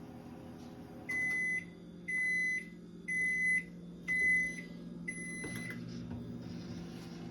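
Toshiba microwave oven humming steadily and beeping five times, high-pitched beeps about a second apart.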